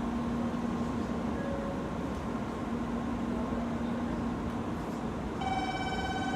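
Steady hum and noise of a Shinkansen train standing at the platform. About five seconds in, a steady electronic platform tone starts sounding: the departure signal just before the train leaves.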